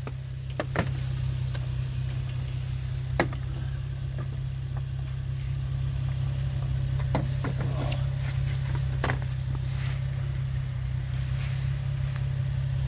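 A car engine idling steadily, with a few sharp clicks and crackles of dry leaves being pulled out by hand from behind a front bumper.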